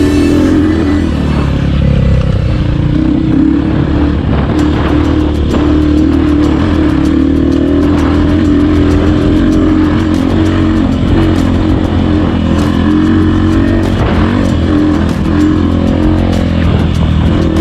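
Motorcycle engine running steadily while riding, with small changes in pitch as the throttle is worked.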